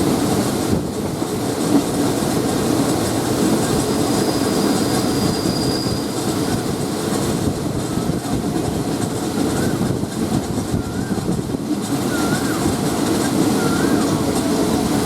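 Passenger train heard from on board, running with a steady low rumble of wheels on track. From about two-thirds of the way in, the wheels give a run of short, wavering high squeals, repeated every second or so.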